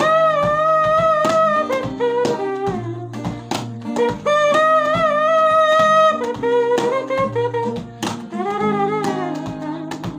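A man's mouth imitation of a saxophone playing a melody, with two long, slightly wavering held notes and a shorter phrase near the end, over a backing track of guitar and drums.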